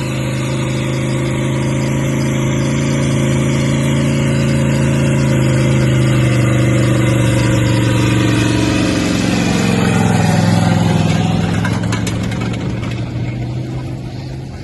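Linn tractor's engine running steadily as it pulls a drag. It grows louder until about ten seconds in, then fades and drops slightly in pitch as the tractor moves away.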